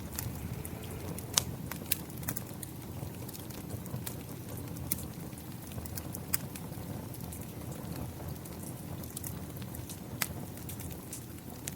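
Rain falling steadily together with a wood fire crackling, with scattered sharp pops about every second.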